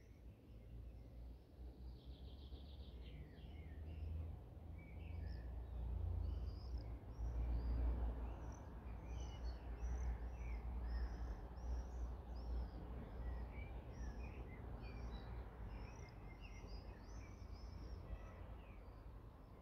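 Several songbirds singing and chirping, with a fast trill about two seconds in, over a low rumble that swells about six to ten seconds in.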